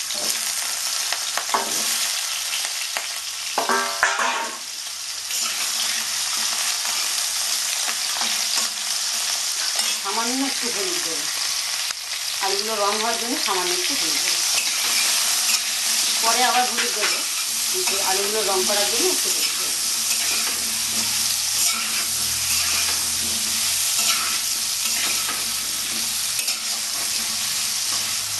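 Potato chunks frying in mustard oil in a wok, a steady sizzle, with a steel spatula stirring them through the pan at times.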